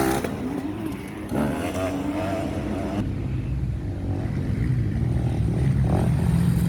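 Motocross dirt bike engines revving and running on the track, the engine note rising slightly and getting louder toward the end as a bike comes closer.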